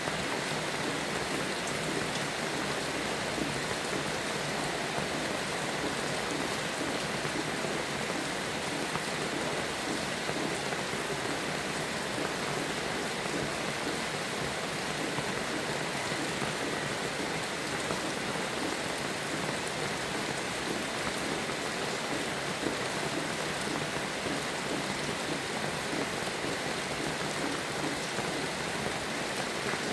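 Steady rain falling, an even hiss of drops with no breaks or swells.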